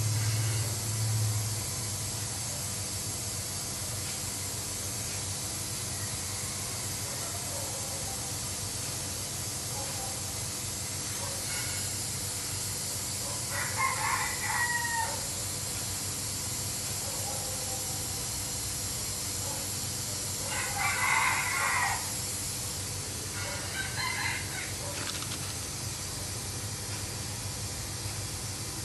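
A bird calling three times over a steady hiss: once about halfway through, then twice more a few seconds apart, the middle call the loudest.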